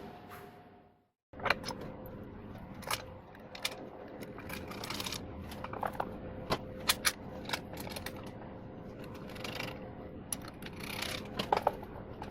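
Hand tools and small metal parts clicking and tapping at irregular intervals during workshop assembly work, over a faint steady hum. The sound cuts out briefly about a second in.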